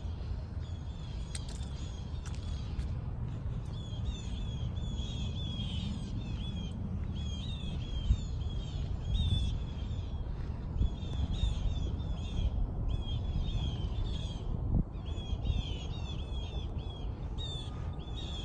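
Birds calling, a rapid chatter of short, high, repeated notes in bursts with brief gaps, over a steady low rumble.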